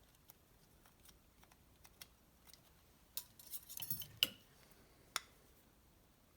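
Small metallic clicks and clinks of a piston and its just-removed old piston rings being handled. The clinks cluster about three to four seconds in, ending in one sharp click, with another click about five seconds in.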